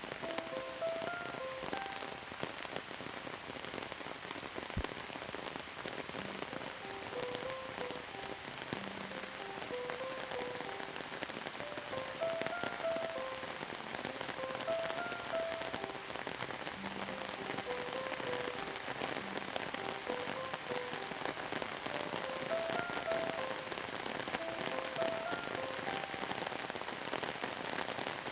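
Steady rain falling and pattering on surfaces, many small drops ticking, with a soft melody of short, gentle notes playing faintly underneath.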